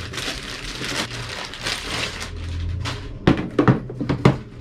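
Cardboard and plastic packaging rustling as a rack power conditioner is pulled out of its box, followed by a few sharp knocks as the unit is handled.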